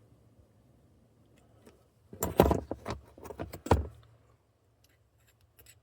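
Metal clinking and rattling as a new spark plug is handled and its electrode bent back to close the gap: a quick cluster of sharp clicks and jangles about two seconds in, lasting under two seconds, then a few faint ticks near the end.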